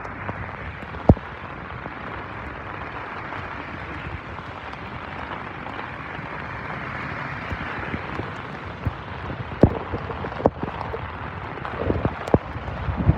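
Heavy rain falling on a wet street: a steady hiss, broken by a few sharp taps about a second in and again near the end.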